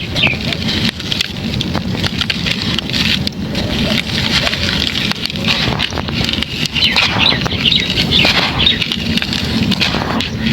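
Dry, crumbly chunks of moulded cement-like material being crushed and crumbled by hand, with a dense, steady crunching and crackling. Birds chirp briefly now and then, most around seven to eight seconds in.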